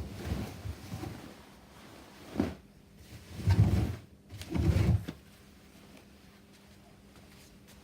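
Whirlpool washing machine near the end of a delicate cycle, making a few short low rumbles and knocks, the two loudest just after the middle, then falling back to a faint steady hum.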